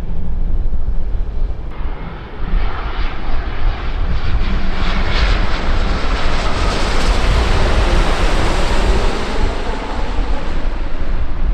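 Airliner's engines passing the airfield, a rushing noise that swells from about two seconds in, holds at its loudest in the middle and fades near the end. Wind rumbles on the microphone throughout.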